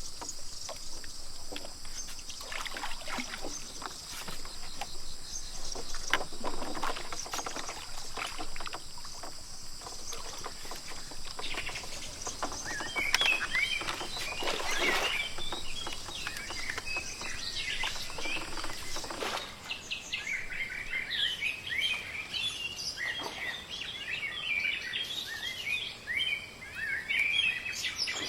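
Birds chirping and singing, starting about halfway through and getting busier near the end, over a steady high-pitched hiss. Scattered short knocks and rustles come in the first half.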